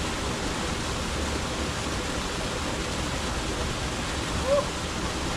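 Steady rushing of a waterfall. A brief chirp cuts through about four and a half seconds in.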